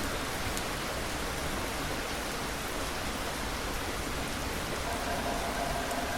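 Steady rain falling, an even hiss with no breaks. A faint steady tone comes in about five seconds in.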